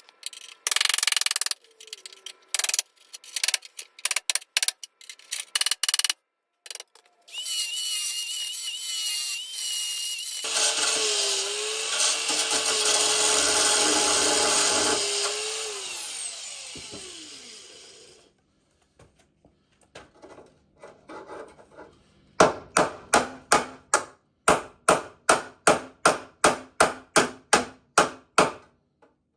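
Bodywork tools at work on a car's sheet-metal panels, in short edited snatches. A power tool runs with a high whine, then spins down and stops. Rhythmic scraping strokes follow, about three a second.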